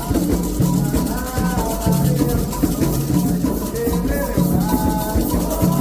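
Candomblé ritual music: voices singing a chant over hand percussion, with a shaker rattle keeping a fast, steady pulse and drums repeating a low pattern.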